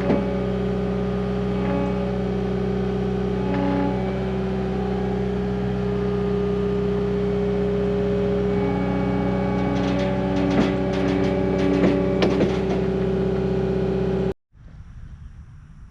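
Engine running at a steady speed, with a run of sharp metallic clanks about ten to thirteen seconds in. The sound cuts off suddenly near the end.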